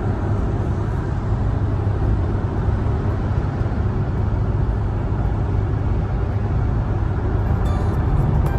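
Steady low rumble of a moving vehicle on the road.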